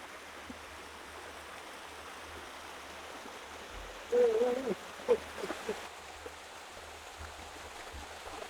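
Steady rush of a forest stream, with a short pitched call of about half a second around four seconds in, followed by a few brief chirps.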